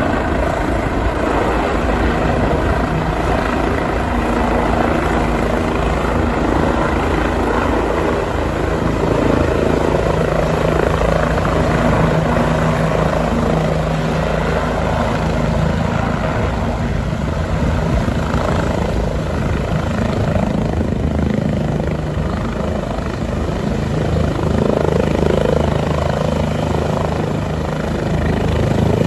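Helicopter running steadily overhead: a constant drone of engine and rotor with a low, fast pulsing beat.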